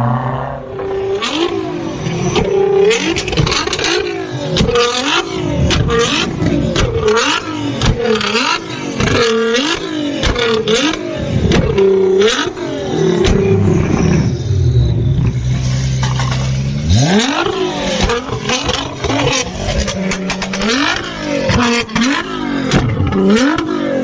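A sports car engine revved hard in quick repeated blips, each rising and falling about once a second, with sharp exhaust pops and bangs between the revs. About two-thirds of the way through there is a steady stretch, then one hard rising rev, and the blipping starts again.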